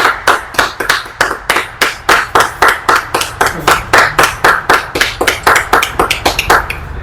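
Hand clapping in a steady rhythm, about four to five claps a second, which stops near the end.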